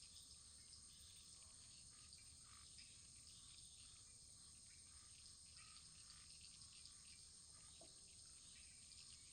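Faint wood fire crackling in a fireplace: small irregular pops and ticks over a steady soft hiss and low rumble.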